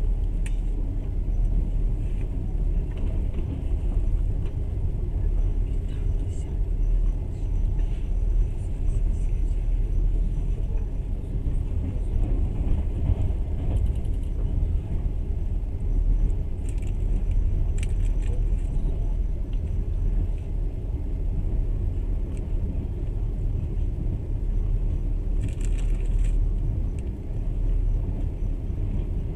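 Passenger train running along the track, heard from inside the carriage as a steady low rumble. Twice a brief higher hiss rises over it.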